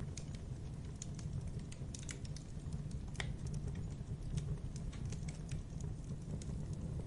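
Campfire burning: irregular wood crackles and pops over a steady low rumble of the flames, with one sharper pop about three seconds in.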